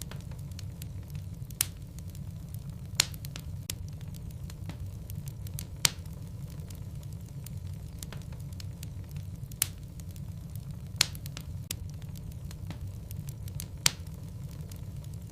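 Logs burning in a fireplace: a steady low rumble of flames with frequent crackles and sharp pops from the wood, about six of them loud, spread irregularly.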